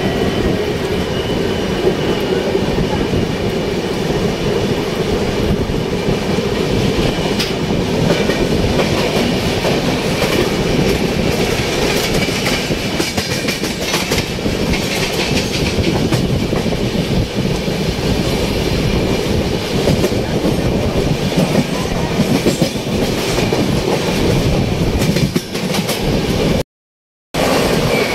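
Indian Railways express train running, heard from the open door of a coach: a steady rumble and rush of air, with the clickety-clack of the wheels over the rail joints. The sound cuts out briefly near the end.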